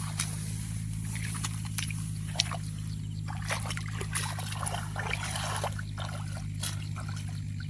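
Shallow muddy water sloshing and splashing, with many short sharp splashes and clicks, as fish are caught by hand in a drained rice field. A steady low hum runs underneath.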